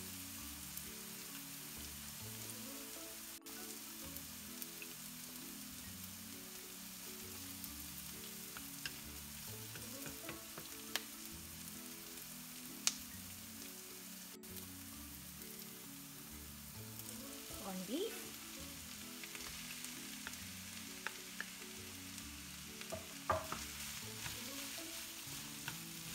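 Food sizzling as it fries in hot oil in a pan, stirred, with occasional sharp clicks and scrapes of the utensil against the pan. Soft background music plays underneath.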